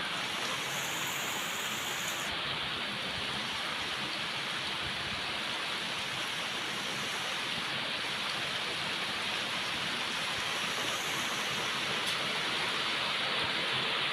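Steady rain falling, a constant even hiss with no single drops standing out.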